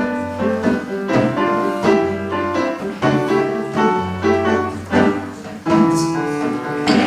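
Piano playing an instrumental introduction, a run of distinct notes over a steady bass.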